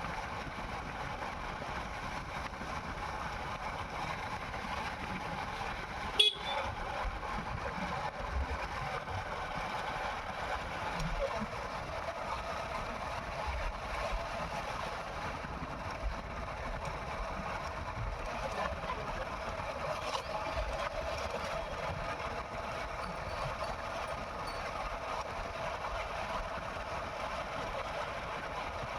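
Steady running vehicle noise with faint horn-like tones, broken by one sharp click about six seconds in.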